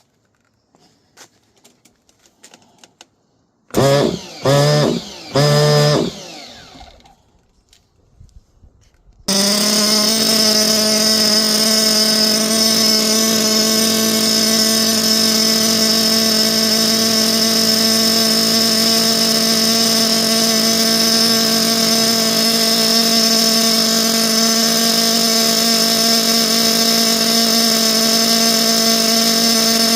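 Three short spins of a starter box cranking a Nova T6R nitro RC engine, each rising in pitch. About nine seconds in the engine catches and then runs steadily at one pitch.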